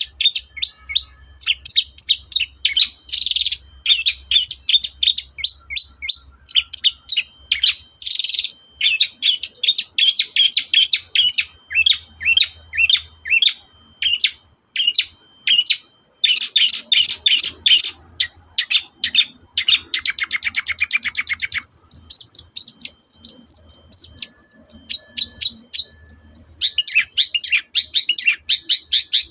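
Long-tailed shrike (cendet) singing a loud, varied, rapid song of sharp repeated notes, with a fast trill about twenty seconds in.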